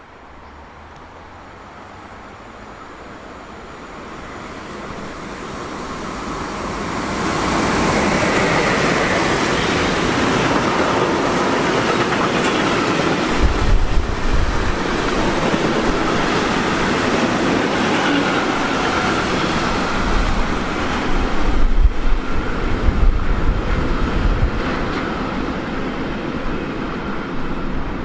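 Freight train of tank wagons hauled by an electric locomotive approaching and passing close by: the sound grows over the first seven seconds or so into the loud, steady rattle and rumble of wheels on rails, with bursts of low buffeting about halfway through and again later, easing slightly near the end as the last wagons pass.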